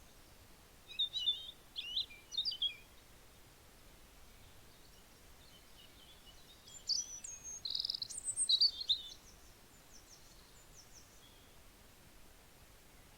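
Bird chirping and whistling with short, high, quickly gliding notes in two bouts, one about a second in and a longer one around seven seconds in, over a faint steady hiss.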